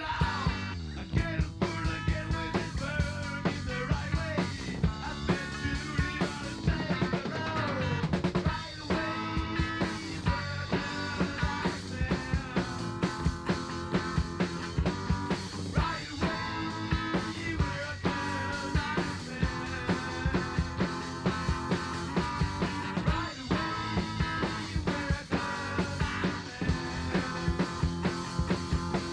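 Instrumental passage of a rock song: guitar, bass and drums playing with a steady beat, with a few pitch-gliding guitar lines several seconds in.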